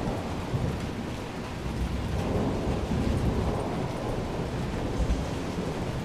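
Thunderstorm: steady rain hiss with a deep rumble of thunder underneath.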